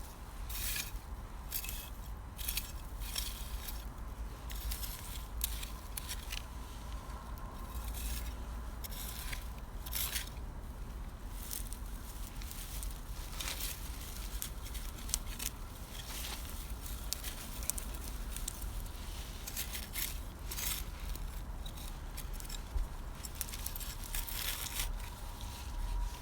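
Irregular rustling, scraping and crackling of carrots being pulled and dug out of the soil, with their leafy tops rustling, over a low rumble.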